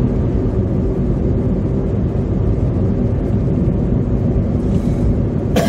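Steady drone of engine and tyre noise inside a car driving on a slush-covered highway. Near the end comes one short, sharp burst.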